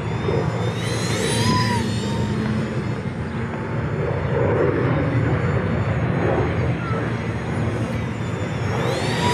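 Electric motor and propeller whine of an XK A170 Boeing 787 RC plane in flight. The high whine rises in pitch about a second in and again near the end, over a steady rushing noise.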